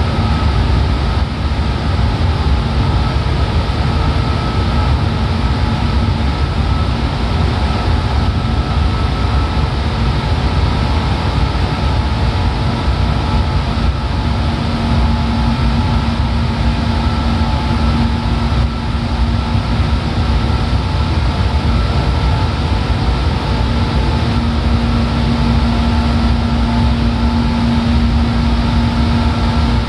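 Seibu 4000 series electric train heard from inside the car while running at steady speed: a continuous rumble of wheels on rail with a steady motor and gear hum that grows a little stronger near the end.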